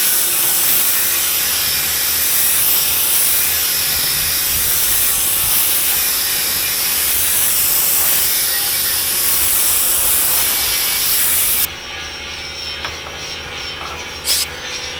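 Compressed-air paint spray gun hissing steadily as it sprays primer, then cutting off suddenly near the end as the trigger is released; a short sharp sound follows in the quieter background.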